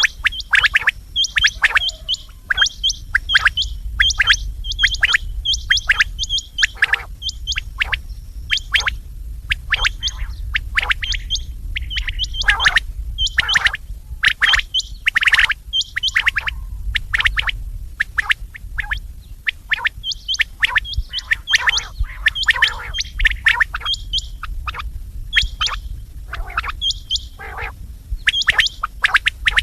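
Quail calling over and over: dense runs of short, sharp whistled notes, several birds or a looped recording, over a steady low hum.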